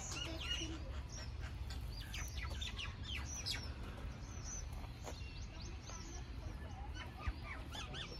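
Many small birds chirping, a dense run of short high chirps and quick sweeping calls throughout, over a steady low rumble.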